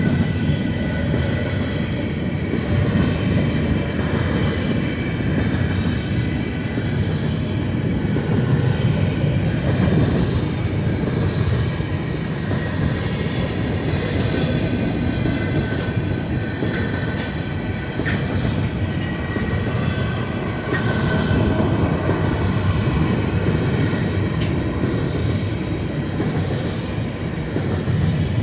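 Long Union Pacific freight train of grain and manifest cars rolling past, a steady rumble of wheels on the rails with faint high tones over it.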